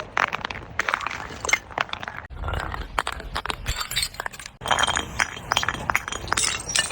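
Glass being crushed and broken: rapid crunching and cracking with shards clinking, heavier and lower for a couple of seconds in the middle.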